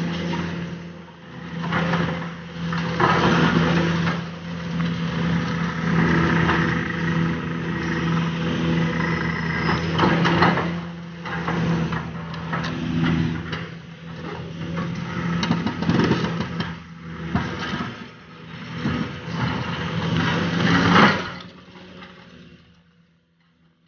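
Demolition in progress: a heavy machine's engine drones steadily under load while concrete and debris crack, crunch and crash. The sound drops away sharply near the end.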